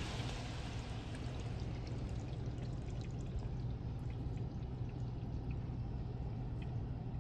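Water pouring and dripping off a car in a car wash, with scattered drips over a steady low hum.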